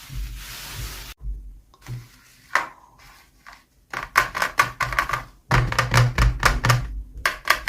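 Quick runs of sharp clicks and taps, like small hard plastic pieces of miniature toys and their packaging being handled, coming thickest in the second half. A low hum runs underneath.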